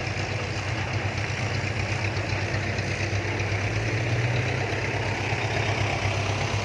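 Diesel dump truck engine running steadily at low revs, a deep even hum that swells a little in the middle.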